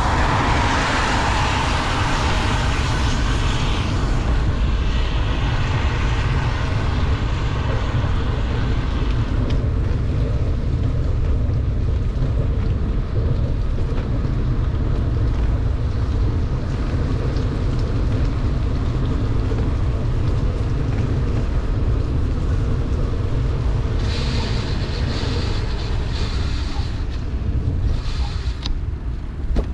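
Wind buffeting the microphone of a bicycle descending in heavy rain: a steady low rumble with a hiss from the wet road. The hiss grows brighter at the start and again about 24 seconds in.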